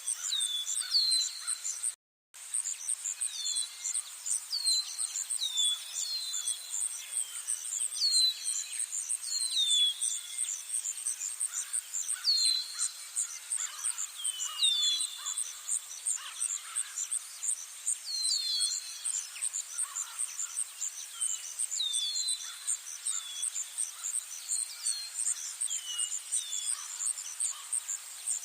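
Outdoor spring chorus: a high, steady pulsing trill, insect-like, runs under many short falling whistled bird calls that repeat about once a second. The sound cuts out completely for a moment about two seconds in.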